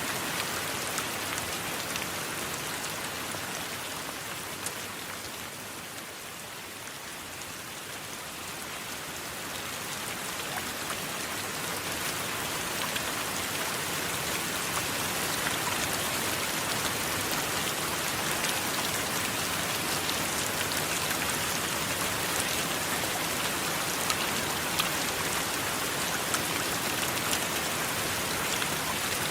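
Steady rain, with a dense hiss and scattered individual drop ticks. It eases off a few seconds in, then builds back to full strength and holds steady.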